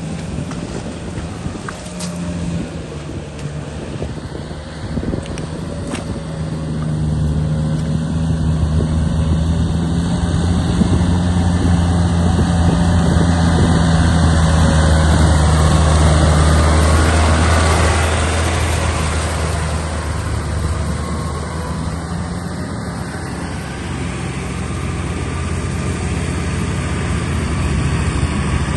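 Tractor engine running steadily while working in mud, growing louder for a long stretch in the middle, easing off, then picking up again near the end.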